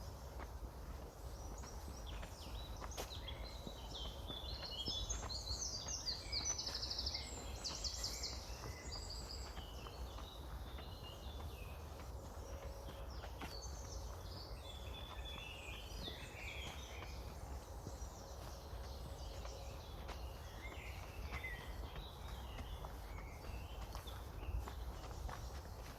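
Several songbirds singing in woodland, with a fast trill of rapidly repeated notes about seven seconds in. Under them run a low wind rumble on the microphone and a few soft footsteps on a path.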